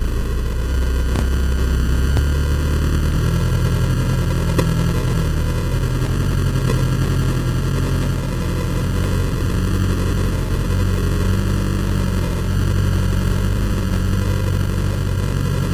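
Toyota Hilux engine working slowly up a rutted dirt climb, a steady low drone that rises and falls a little, heard through heavy rumble and noise on a camera mounted outside on the vehicle. A few faint knocks sound in the first few seconds.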